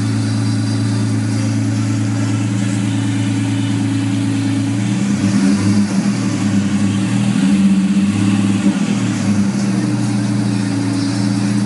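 Ford pickup truck engine idling steadily, then revved in a series of throttle blips from about five seconds in, settling back to idle near the end.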